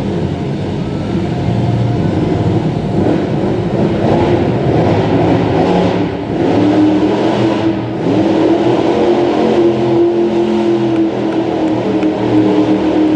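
Monster truck engine running hard and revving, its pitch wavering up and down.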